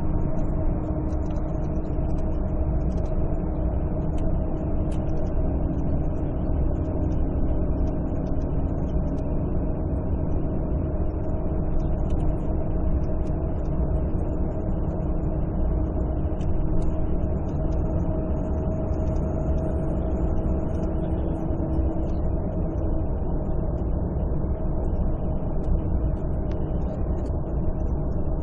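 Volvo D13C 13-litre inline-six diesel engine of a Volvo 9700 coach running steadily, a deep low rumble with a constant hum and no change in engine speed.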